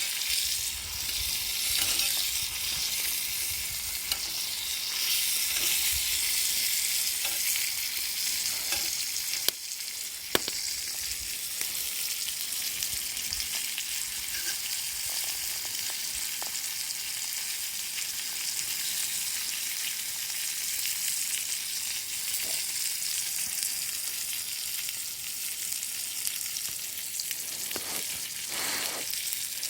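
Food frying in a pan: a steady sizzling hiss with scattered sharp clicks, two of them standing out about ten seconds in.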